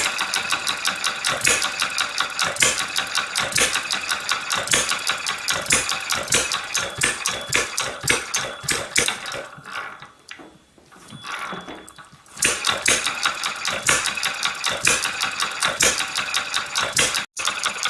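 Small self-built model hit-and-miss engine running with a rapid, even mechanical clatter. It quiets for a couple of seconds about ten seconds in, then picks up again.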